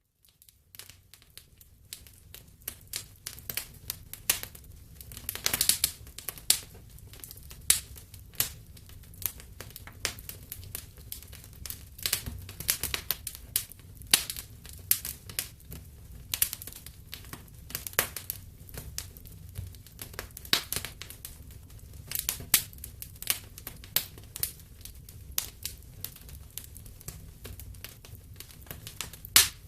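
Wood fire in a fireplace crackling, with irregular sharp pops and snaps over a low steady rumble. The crackling fades in out of a brief silence at the start.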